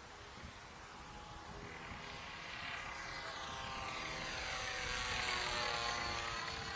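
RC model airplane's OS 60 FP two-stroke glow engine with a 12x6 propeller flying past: the engine note grows louder to a peak about five seconds in while its pitch drops as the plane passes.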